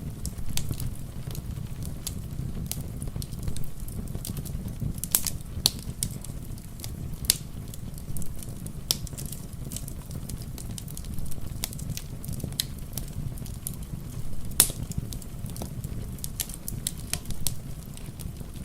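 Wood fire crackling, with sharp pops at irregular intervals, over a steady low rush of rain.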